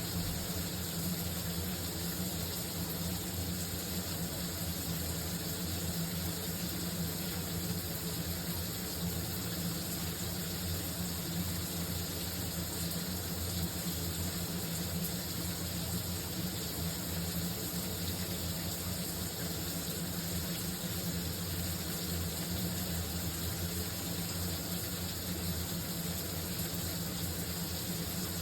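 Shower water running steadily: a constant hiss of spray with a low rumble underneath.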